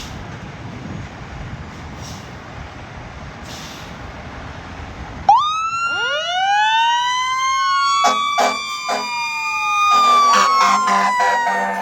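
Fire truck sirens starting up about five seconds in, after a low vehicle rumble: several wails rising together and overlapping, then slowly falling, with short horn blasts and a held horn near the end.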